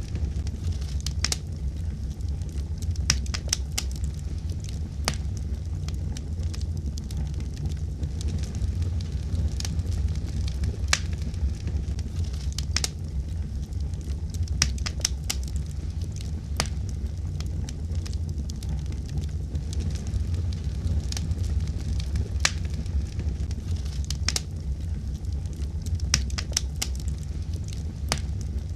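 Wood fire burning in a fireplace: a steady low rumble of flames with sharp crackles and pops scattered irregularly, sometimes several in quick succession.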